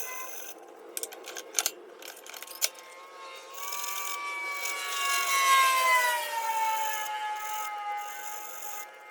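Small power-tool motor running at a steady high pitch, with a few sharp clicks early on. About three and a half seconds in, work is pressed against it: a rasping, abrading noise builds and peaks, and the motor's pitch sags under the load, then settles lower as the noise eases.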